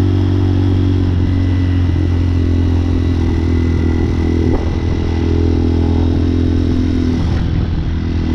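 Hawk 250 dual-sport motorcycle's engine running at a steady, even speed while riding.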